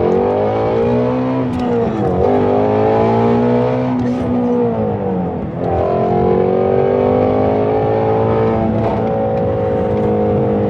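2020 Shelby Mustang GT350R's 5.2-litre flat-plane-crank V8 accelerating under load, its revs climbing and dropping sharply twice at gear changes, about two and five and a half seconds in.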